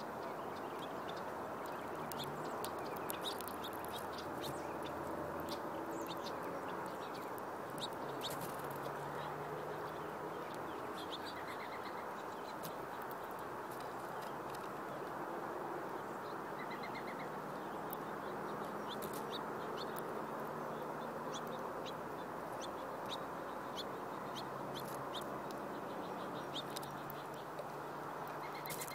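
Birds at a seed feeder chirping: many short, sharp chirps and a few quick trills, over a steady background rush.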